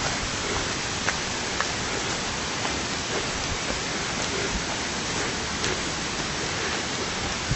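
Water rushing steadily, a continuous even hiss with a few faint ticks over it.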